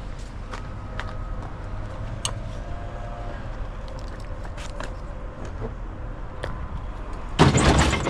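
Car cabin noise while driving: a steady low rumble with scattered small clicks and rattles. A loud rushing burst comes about seven seconds in.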